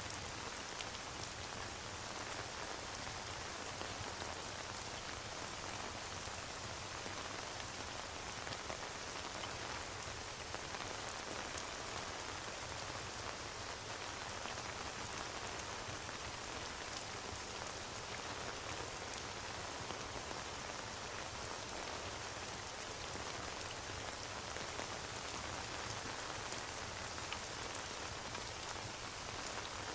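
Steady rain ambience: an even hiss of rain with faint, scattered small ticks and crackles, mixed with a fireplace.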